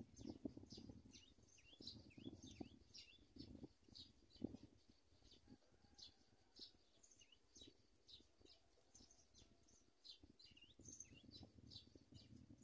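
Faint, high, short bird chirps repeating several times a second over a low rumble.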